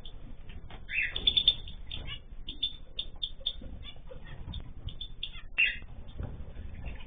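Mixed ornamental cage birds chirping and calling in many short, overlapping notes, with a louder burst of calls about a second in.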